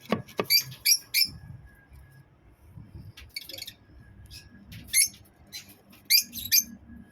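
Lovebirds giving short, shrill squawking calls in clusters of one to three, about eight calls in all.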